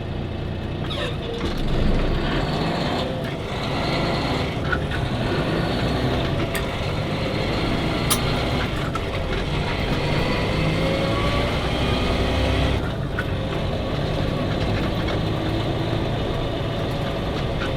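Truck engine and road noise heard from inside the cab while driving: a steady drone, with the engine pitch rising and falling a little.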